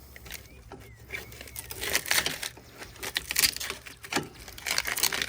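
Brittle old fiberglass muffler tape being picked and torn off an ATV exhaust by hand: irregular scratchy crackling and rustling.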